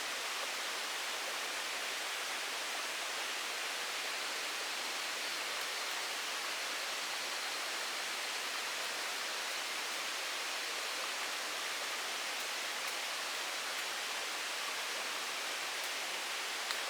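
Steady, even rushing noise with no change in level, like outdoor water or rain noise, and one faint click near the end.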